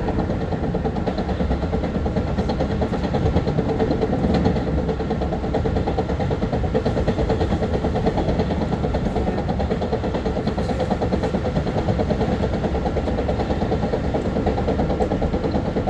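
Long Island Rail Road M3 electric multiple-unit train running, heard from inside the car: a steady rumble with a constant hum.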